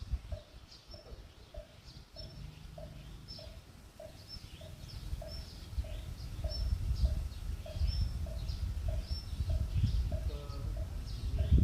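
A wooden moktak (temple fish-shaped wooden block) struck at a steady even pace, about one and a half strokes a second. Small birds chirp throughout, and wind rumbles on the microphone, growing stronger from about halfway and loudest near the end.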